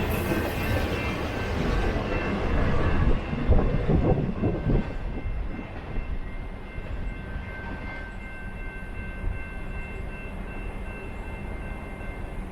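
BNSF intermodal freight train's cars rolling past, the wheels rumbling and clattering over the rails, loudest a few seconds in and then easing off as the train draws away. A faint steady high whine runs under it.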